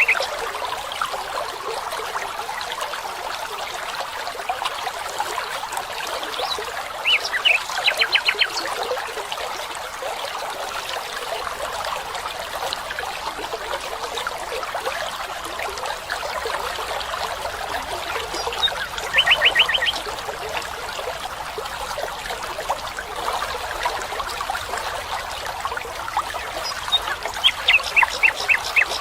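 A stream trickling steadily, with a bird calling three times: short bursts of rapid repeated high notes, about a third of the way in, two thirds of the way in and near the end.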